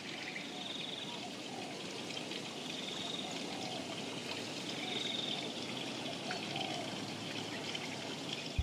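Steady running water, like a trickling stream, with short high trills repeating about every two seconds.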